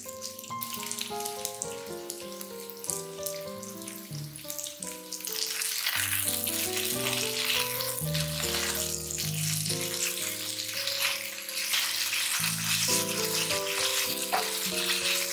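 Diced chicken breast sizzling as it fries in oil in a nonstick frying pan. The sizzle grows louder about five seconds in. A melodic background music track plays throughout.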